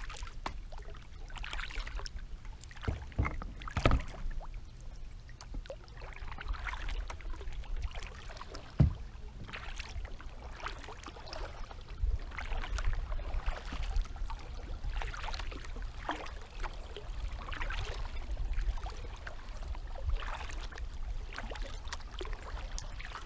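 Kayak paddle strokes in creek water: a swish and splash about every second or so, with a couple of sharper knocks, over a low rumble.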